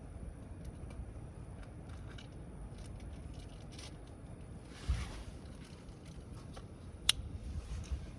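Wood campfire crackling with scattered small snaps and one sharp, loud pop about seven seconds in, over a steady low rumble. A brief rushing swell comes about five seconds in.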